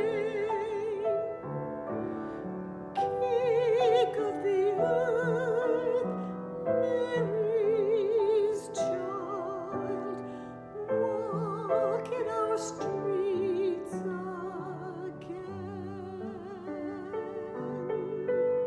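A classically trained soprano singing a slow carol with wide vibrato, accompanied by piano; the voice ends near the end and the piano plays on alone.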